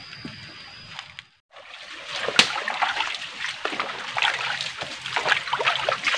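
Footsteps wading through a shallow rocky stream, irregular splashes and sloshes of water with each step. The sound cuts out briefly about a second and a half in before the splashing steps begin.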